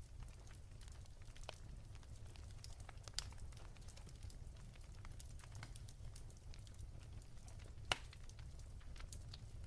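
Wood fire crackling softly in a fireplace: scattered small snaps, with two sharper pops about three seconds in and near eight seconds, over a low steady rumble.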